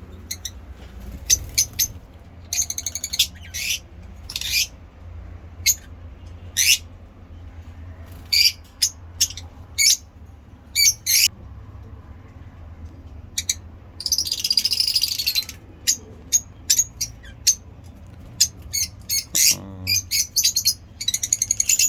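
Caged lovebirds chirping in short, sharp, high-pitched calls one after another, with a longer burst of chatter about two thirds of the way through, over a low steady hum.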